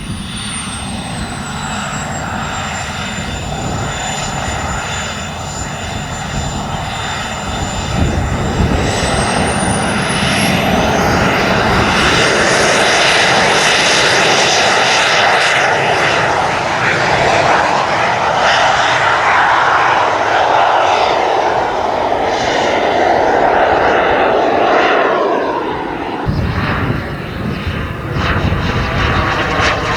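RC model jet's turbine engines with a high whine, spooling up about eight seconds in and running loud at high power. The level drops back a few seconds before the end.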